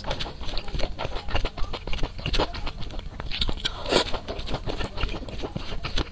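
Close-miked chewing of thick noodles: a steady run of small wet mouth clicks and smacks, with one louder one about four seconds in.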